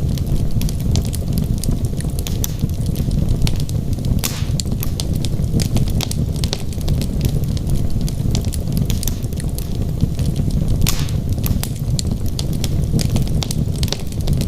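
Wood logs burning in a fireplace: a steady low rumble of flame with constant irregular crackling and snapping, and a few louder pops about four seconds in and near eleven seconds.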